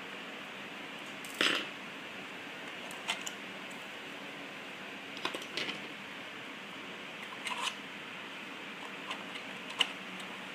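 A few short clicks and rustles, the loudest about a second and a half in, from parts and tools being handled during disassembly, over a steady hiss.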